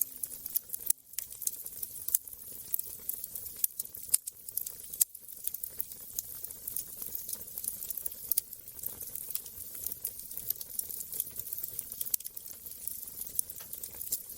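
Wood fire crackling, with frequent irregular sharp snaps and pops over a soft hiss.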